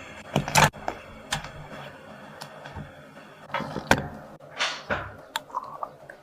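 Kitchen handling sounds: a series of irregular clicks, taps and knocks as utensils and containers are picked up and set down, with a louder knock near the start and a couple more around four to five seconds in.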